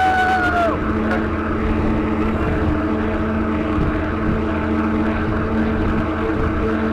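Steady vehicle drone with wind rush, as heard by a road cyclist drafting behind a truck at high speed. A high, held tone with overtones, like a horn, ends with a drop in pitch under a second in.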